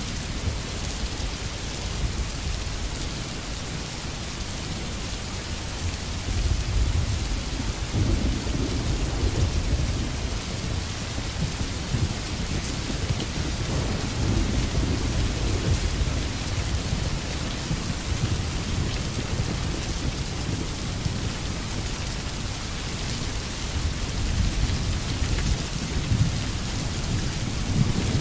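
Steady rain falling, with a deep low rumble that swells several times, strongest about 7 seconds in and again around 15 seconds.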